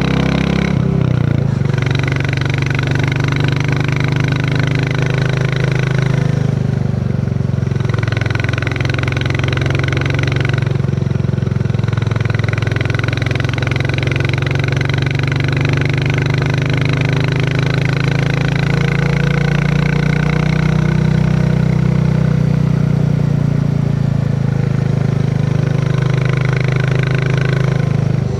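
Royal Enfield Classic 350's single-cylinder engine running steadily under way, its note falling and rising gently a few times with the throttle.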